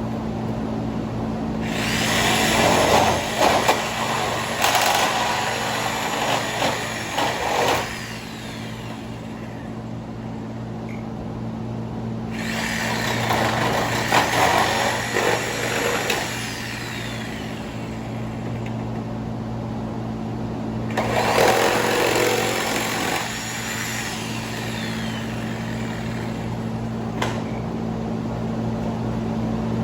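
A handheld power tool run in three bursts of a few seconds each, winding down with a falling whine after each one, over a steady low hum.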